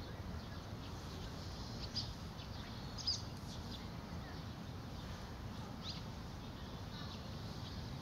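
A few short, high bird chirps, the loudest about three seconds in, over a steady low background rumble.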